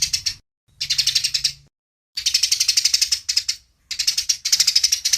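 Eurasian tree sparrows (burung gereja) giving fast, agitated fighting chatter: rapid chirps at about ten a second, in bursts of one to one and a half seconds with short gaps between them.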